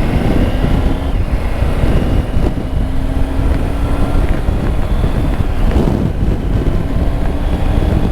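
Wind roaring over the microphone of a moving motorcycle, a Triumph Tiger 900, with its inline three-cylinder engine faintly audible underneath as a steady drone.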